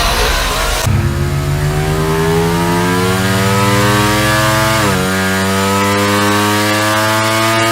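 Ducati Diavel V4 RS's 1,103 cc V4 engine accelerating hard, its pitch climbing steadily from about a second in. The pitch drops sharply with a gear change near the five-second mark, then climbs again.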